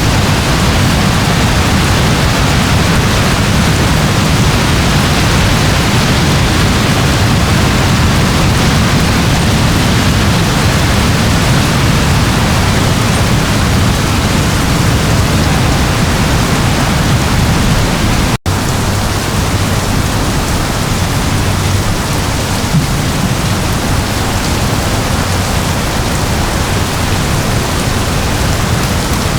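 Steady, dense rain: an even hiss with a heavy low rumble underneath. It cuts out for an instant about two-thirds of the way through, then carries on unchanged.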